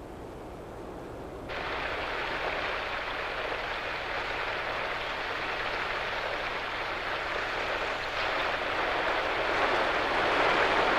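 Heavy rain falling steadily, starting suddenly about a second and a half in and growing a little louder toward the end.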